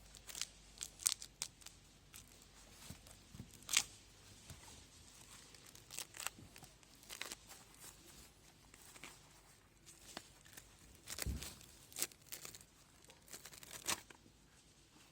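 Irregular sharp crackling and tearing noises, with a few louder snaps about a second in, near four seconds, around eleven to twelve seconds and near the end: something dry being torn or crinkled by hand.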